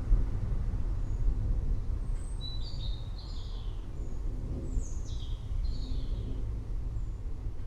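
Steady low rumble of distant thunder, with birds chirping over it in two short runs of high, falling chirps a couple of seconds apart.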